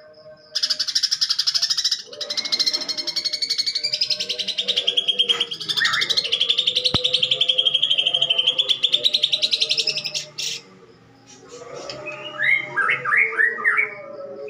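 Greater green leafbird (cucak ijo) singing a long, harsh, very fast rattling trill for about ten seconds, then a quick run of short rising chirps near the end; its song is loaded with mimicked phrases of fighting house sparrows.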